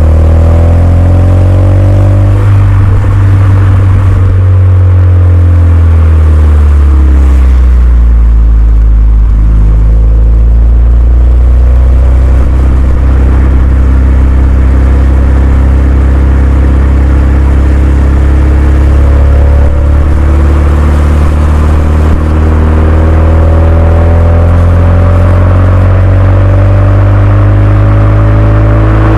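Renault Mégane 2 RS turbocharged 2.0-litre four-cylinder running through a Milltek cat-back exhaust. The engine note falls over the first several seconds, holds low and steady, then climbs slowly through the last ten seconds as revs build.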